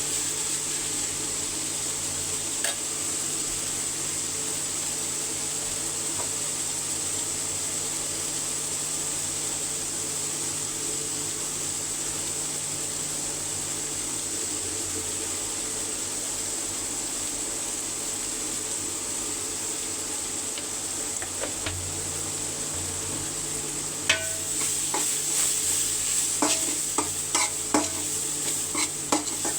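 Spiced chicken curry sizzling steadily in hot oil in a cooking pot. From about three-quarters of the way in, a spoon scrapes and knocks against the pot in quick, irregular clicks as the food is stirred.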